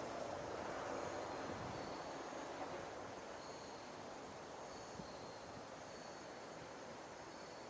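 Insects chirping and trilling in short high bursts over a steady high-pitched drone, while a low rushing noise fades away over the first few seconds.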